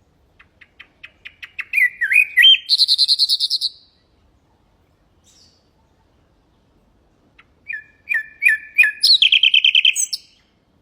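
Nightingale singing two phrases. Each opens with a run of soft clicks that speed up, then goes into a few whistled notes and a loud, fast trill. The second phrase starts about seven and a half seconds in.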